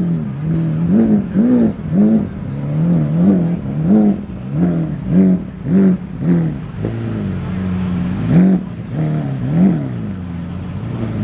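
A car engine being revved in quick repeated blips, its pitch rising and falling about twice a second, then held steadier for a moment before a few more blips.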